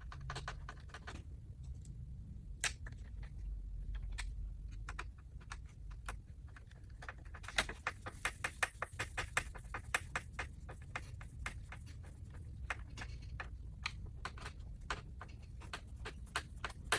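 Irregular light clicks and scrapes of hand-work on plastic grille parts and clips, sparse at first and coming thick and fast from about halfway through, over a steady low hum.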